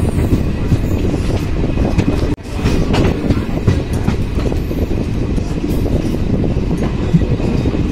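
Indian Railways passenger train running along the track, heard from on board: the steady noise of the wheels on the rails, with a brief sudden drop-out about two seconds in.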